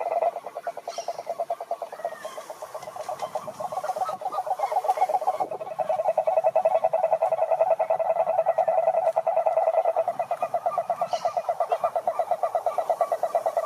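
A chorus of several frogs calling together: rapid, overlapping pulsed calls, louder and denser from about halfway through.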